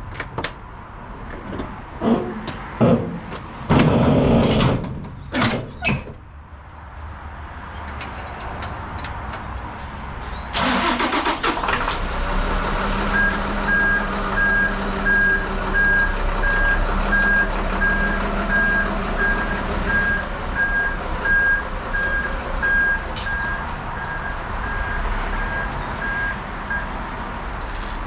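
A few knocks and clunks, then a diesel dump truck engine starts about ten seconds in and settles into running. From about a third of the way through, a reversing alarm beeps rapidly and steadily over the engine for some fourteen seconds.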